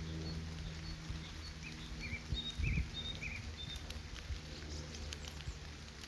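Small birds calling in autumn woodland by a lake: a series of short high chirps and a few quick warbled notes in the first half, over a low steady hum of outdoor background. A low bump about two and a half seconds in, and a few faint ticks near the end.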